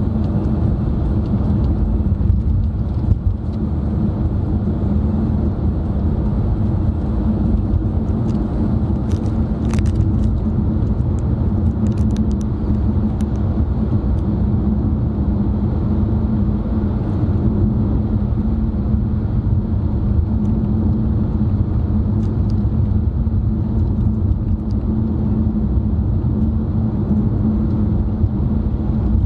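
Car cabin noise while driving: a steady rumble of tyres and engine with a low hum, and a few faint ticks near the middle.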